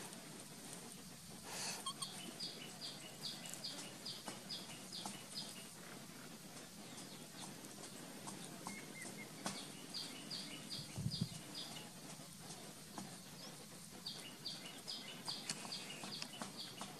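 A bird calling in three bouts of short, high repeated notes, about three a second, over faint scattered clicks.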